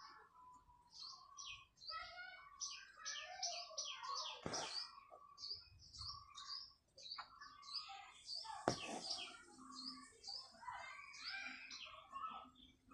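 Birds chirping and chattering steadily, with two sharp clicks, about four and a half and nine seconds in.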